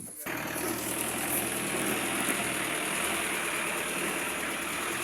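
A vehicle engine running steadily under a constant hiss of noise. It cuts in abruptly just after the start.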